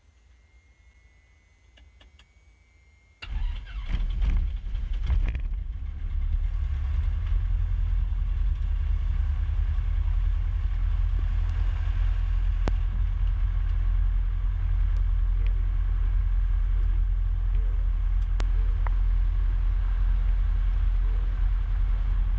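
Cessna 150's Continental O-200 four-cylinder engine being started: after a quiet moment it cranks and catches about three seconds in, runs unevenly for a couple of seconds, then settles into a steady idle.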